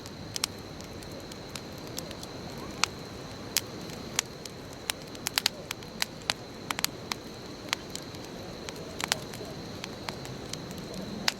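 Wood bonfire crackling: sharp, irregular pops and snaps, several close together around the middle, over a steady hiss of burning.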